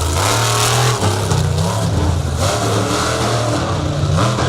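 Monster truck engine revving hard through a freestyle run, its pitch climbing and dropping again and again as the throttle is worked.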